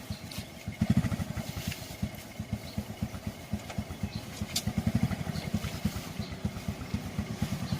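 An engine running at low speed, a steady rapid even pulsing.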